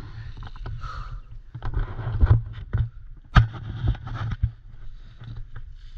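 An airsoft player on the move: footsteps and gear rustling with irregular knocks, over a low rumble of handling or wind on the microphone. There is one sharp click about three and a half seconds in.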